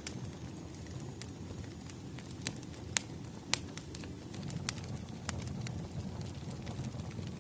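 Wood fire crackling: sharp pops and snaps at irregular moments over a low steady rumble of burning logs.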